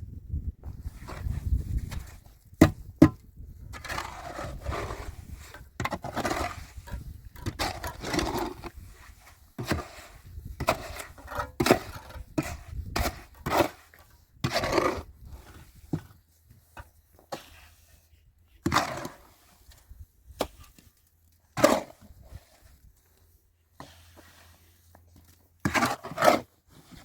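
Irregular wooden knocks and scraping, with a few sharp loud strikes, as timber is handled and worked during building.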